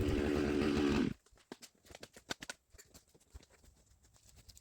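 Chainsaw running at idle, shut off about a second in, followed by scattered faint crackles and ticks of footsteps or settling debris in brush.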